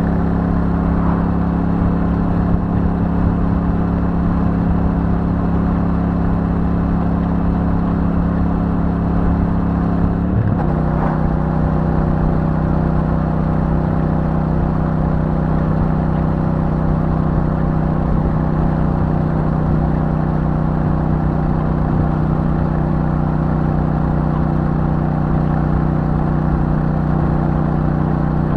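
Royal Enfield Super Meteor 650's 648 cc parallel-twin engine through its stock exhaust, running steadily at cruising speed. About ten seconds in, its note steps to a slightly different steady pitch and holds there.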